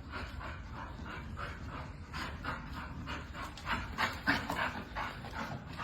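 A dog panting in a steady rhythm of about three breaths a second, growing a little louder about two seconds in.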